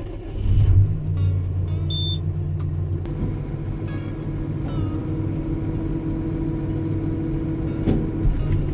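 Diesel farm machine's engine running steadily with a low, even drone, briefly louder just under a second in.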